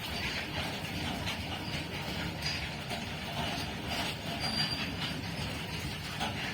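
Train running on the track: a steady rumble of wheels on rails, with a couple of brief high wheel squeals.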